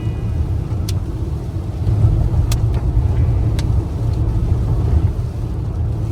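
Steady low rumble of a moving vehicle, with a few sharp clicks.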